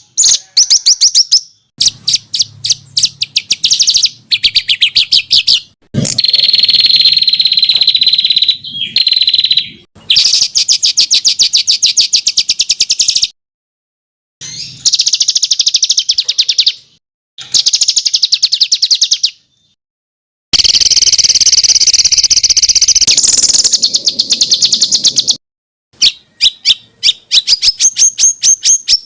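A songbird singing fast, high-pitched rapid-fire trills and chattering phrases of tightly repeated notes. This is the varied 'tembakan' song used as masteran tutor recording for competition birds. It comes in bursts of one to several seconds, broken by abrupt cuts to silence.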